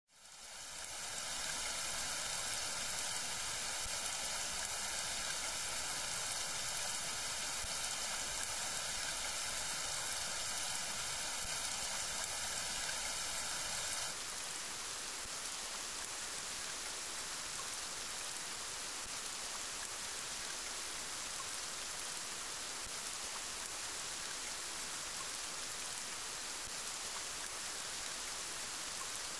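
Steady rain falling, an even hiss that fades in over the first second. About halfway through, the sound shifts to a slightly quieter, smoother hiss.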